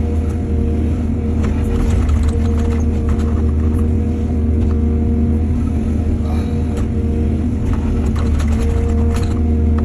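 Excavator's heavy diesel engine running steadily with a deep, constant drone, with scattered knocks and clatter from loading soil, thickest in two spells about a third of the way in and near the end.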